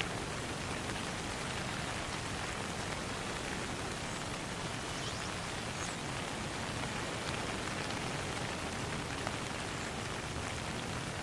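Steady rain falling on a pond, an even dense patter with scattered single drops standing out.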